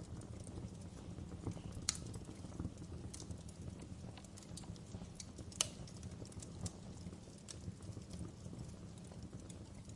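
Fireplace wood fire crackling: irregular sharp pops and snaps over a steady low rumble, with two louder pops, one about two seconds in and one midway.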